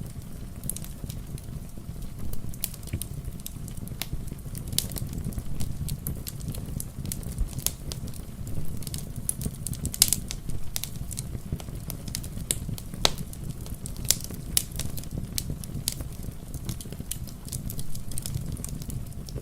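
Wood fire crackling, with irregular sharp pops several times a second over a steady low rumble.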